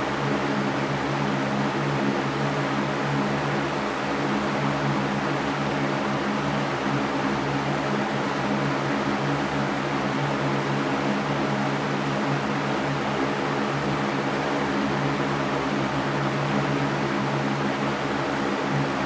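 Electric fan running steadily: an even rushing white noise with a low motor hum beneath it.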